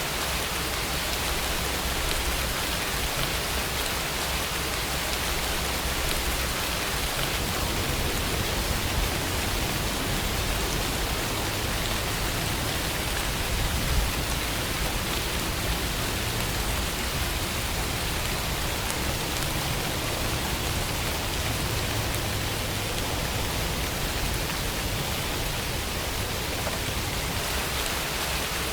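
Steady rainfall, an even hiss of rain with a low rumble underneath.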